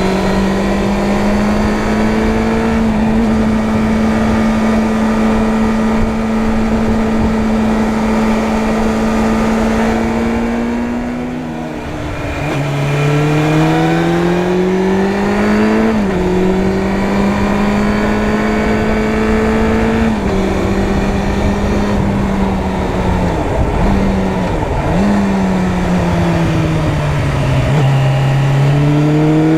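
Suzuki Bandit 600's inline-four engine under way on the road, with a steady rush of wind noise. It runs at a steady pitch for about ten seconds, eases off, then climbs in pitch and drops suddenly as it is shifted up. It then settles, dips briefly twice, falls away, and rises again near the end.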